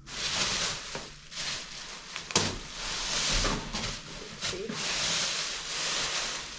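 Packaging being handled while a boxed electric fireplace insert is unpacked: repeated rustling swells, with one sharp knock about two and a half seconds in.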